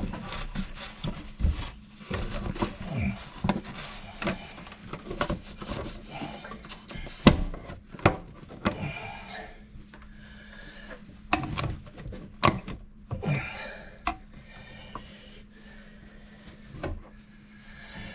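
Irregular knocks, clicks and rubbing of tools and fittings being handled during plumbing work, with a few sharper hits and a steady low hum underneath.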